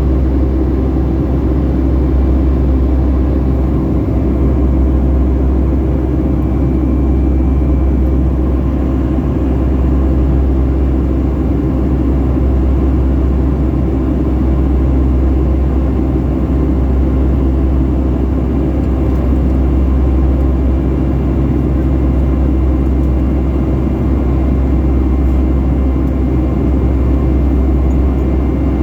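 Steady, loud drone of a Boeing 757-300's jet engines and airflow heard from inside the passenger cabin, a deep rumble with a few low steady hums and no change in pitch.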